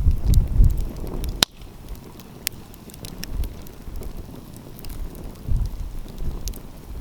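Wood fire crackling, with scattered sharp pops, the loudest about a second and a half in. Gusts of wind rumble on the microphone at the start and again near the end.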